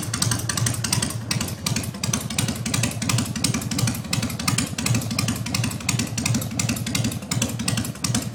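Harley-Davidson Deuce bobber's air-cooled V-twin engine idling steadily, a run of regular firing pulses with no revving.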